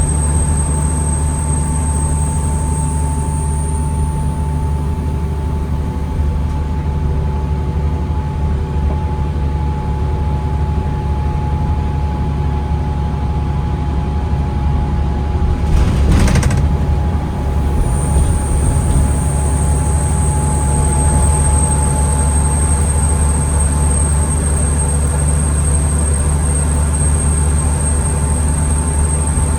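A 2009 New Flyer D40LFR diesel transit bus running, heard from inside: a steady low engine rumble with a constant whine over it. A short burst of hiss comes about halfway through.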